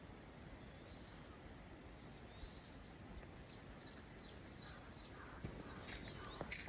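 A small bird singing faintly over a soft steady hiss: a few high rising whistles, then a quick run of high chirping notes about three seconds in.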